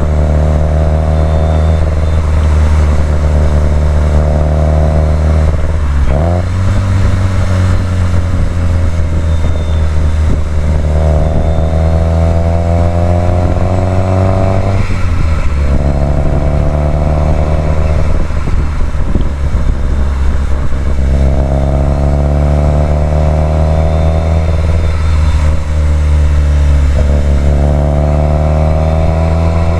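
Subaru WRX STI's turbocharged flat-four boxer engine pulling under load on a winding road, its note climbing steadily in long sweeps and dropping back sharply three times as the driver lifts or shifts.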